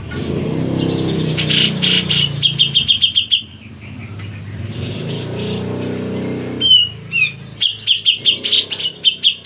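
Grey-cheeked bulbul (cucak jenggot) singing: rapid runs of sharp, repeated chattering notes, one about two seconds in and a longer run from about seven seconds in. A low engine hum runs under the first part and fades out.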